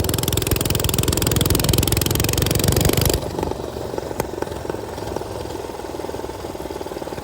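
Minibike's small single-cylinder engine running hard under throttle. About three seconds in it drops abruptly to a quieter, steady running.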